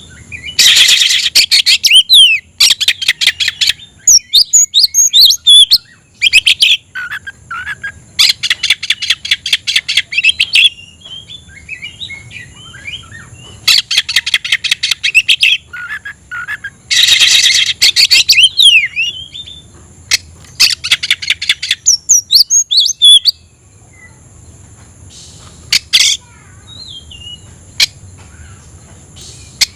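Oriental magpie-robin (kacer) singing loudly: bursts of rapid repeated chattering notes, each lasting one to two seconds, alternate with varied whistled phrases that glide up and down. In the last few seconds the song thins to a few scattered notes.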